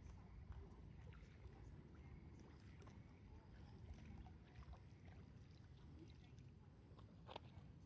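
Near silence: a faint, steady low rumble with a few scattered faint ticks.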